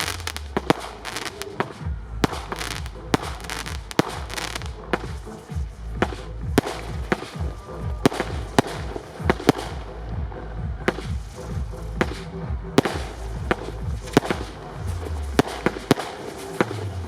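Display fireworks firing and bursting: many sharp bangs and cracks in quick, irregular succession over a continuous low rumble.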